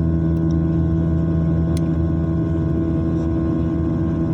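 Aircraft cabin noise during the climb: a steady engine drone with several constant tones, and a single short tick a little under two seconds in.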